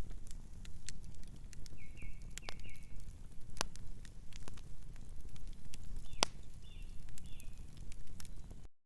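Wood fire crackling steadily, with many small snaps and two louder pops. A bird calls faintly twice, three short chirps each time. The sound cuts out briefly near the end.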